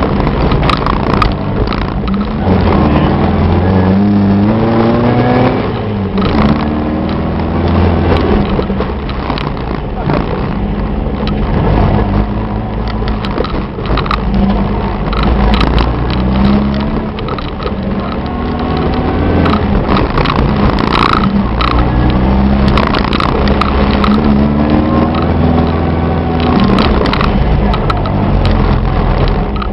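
Engine of an off-road VW Baja Bug revving up and down again and again as it drives a rough dirt trail, heard from inside the open, roll-caged cab.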